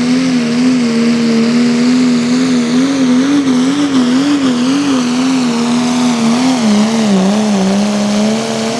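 A Light Pro Stock pulling tractor's engine running flat out under load on the sled, its pitch high and wavering up and down several times a second as it works down the track, then sagging lower near the end.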